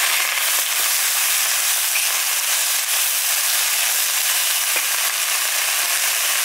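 Bok choy stir-frying in a hot, oiled wok: a loud, steady sizzle with crackling as the metal spatula turns the leaves.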